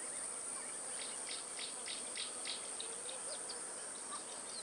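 Steady high-pitched insect chorus, with a run of short chirps repeating a few times a second over it.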